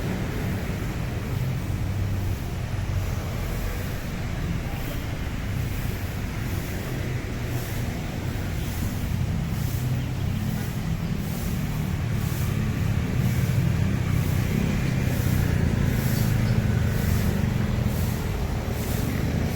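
Steady street traffic noise: a continuous low rumble of cars and other motor vehicles, growing a little louder in the second half.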